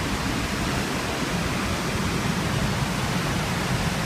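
Steady rushing roar of Wahclella Falls, an even, unbroken wash of water noise.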